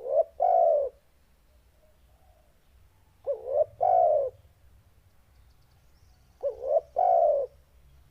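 Spotted dove (tekukur) cooing in a deep voice: three calls about three seconds apart, each a short note followed at once by a longer coo.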